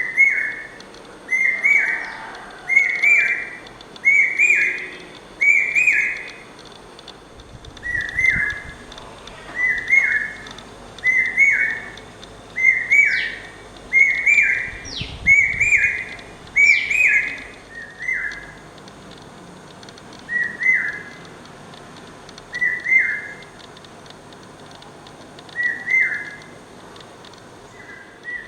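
Common hawk cuckoo (brain fever bird) singing loud, whistled phrases, repeated about once every second and a half in runs. The phrases fall further apart toward the end.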